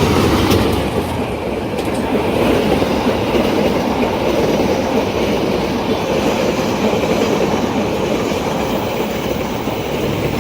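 Passenger train passing at speed over a level crossing, its wheels running loudly over the rails, easing slightly near the end.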